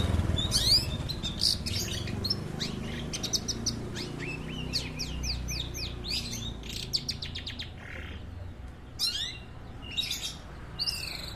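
Long-tailed shrike (cendet) calling in quick runs of sharp, falling chirps, with short pauses between bursts.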